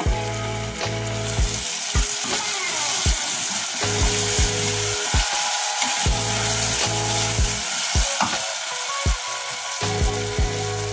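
Tomato and onion curry base sizzling and frying in a stainless steel pot while a wooden spoon stirs it, knocking and scraping against the pot about once a second, over quiet background music.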